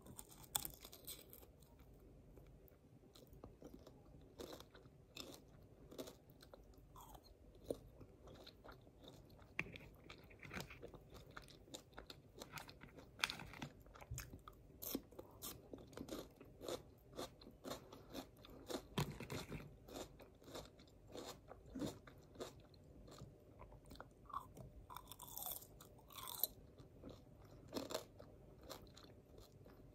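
Close-up chewing of deep-fried bamboo beetle larvae, with many irregular crisp crunches as the fried larvae are bitten and chewed.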